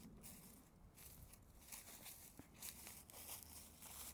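Faint, intermittent crinkling and rustling of litter being handled, several short rustles a second or so apart.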